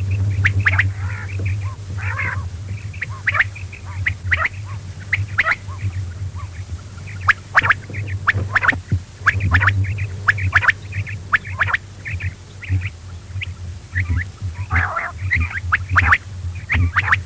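Quail calling: a busy stream of short, sharp calls, several a second at irregular intervals, over a steady low hum.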